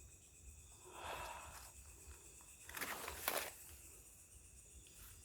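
Dry leaves rustling and crunching in a few short bursts, a soft one about a second in and a louder cluster around three seconds in, over faint steady insect trilling.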